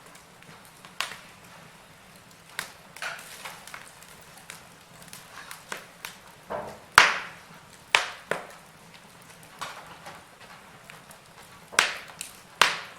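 Wood fire burning in a fireplace, crackling with irregular sharp pops over a faint hiss; the loudest pop comes about seven seconds in, with two more strong ones near the end.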